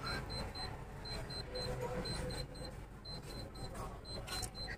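Electronic beeping: short high-pitched beeps in quick groups, the groups repeating about once a second.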